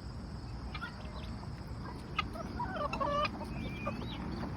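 A flock of chickens clucking and calling while they feed, short chirps and clucks scattered over a steady low rumble.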